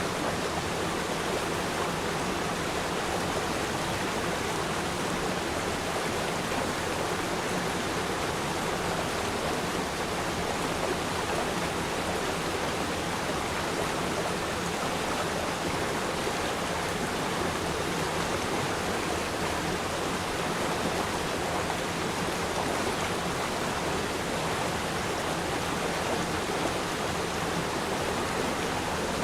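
River stream flowing over rocks, a steady even rush of water with no breaks.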